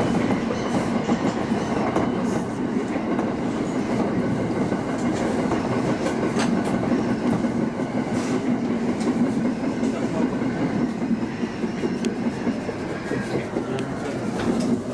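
Local train running along the track, heard from inside at the front: a steady rumble with occasional sharp clicks of the wheels over rail joints.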